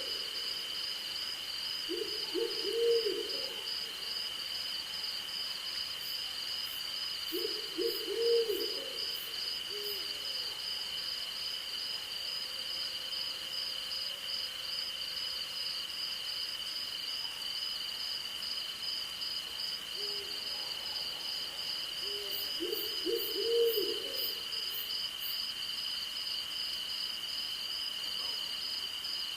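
Owl hooting in three short runs of quick low notes, over a steady high insect trill and a faster pulsing cricket chorus that run throughout.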